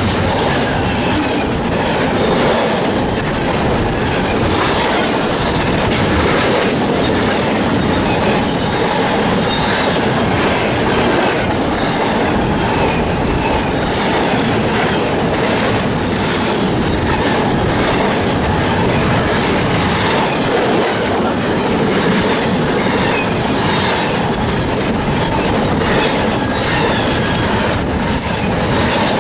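Freight train cars rolling past, with a steady rumble and rattle and a continuous run of wheel clicks over the rail joints.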